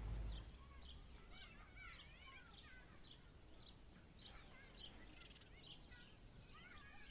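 Faint birds chirping over quiet room tone: short high chirps about twice a second, with bursts of twittering calls.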